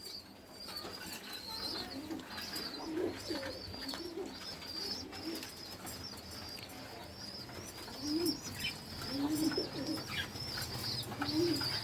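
Domestic pigeons cooing, several low coos scattered through, loudest in the second half, over continuous high twittering of smaller birds.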